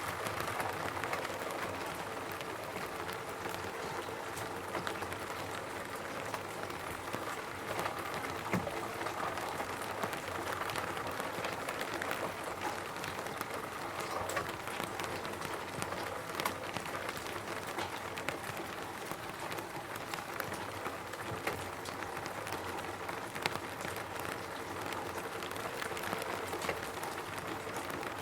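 Steady rain falling on a roof: a continuous patter of many small drop impacts, with sharper individual drips scattered throughout.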